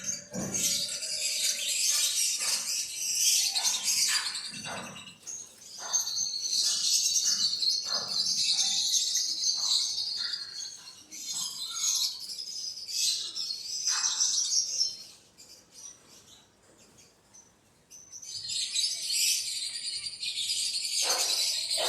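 A flock of small birds chirping densely and continuously, with a quiet lull about two-thirds of the way through before the chirping starts up again.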